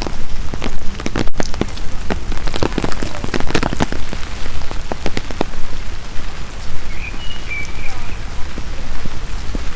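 Steady rain falling, with many loud separate drops striking close by.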